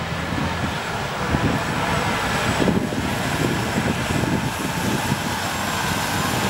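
Heavy trucks' engines rumbling steadily as the trucks drive past.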